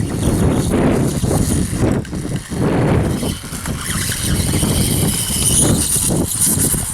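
Electric motor of a battery-powered RC dirtbike whining as it rides, the high whine growing stronger in the second half, over heavy wind noise on the microphone.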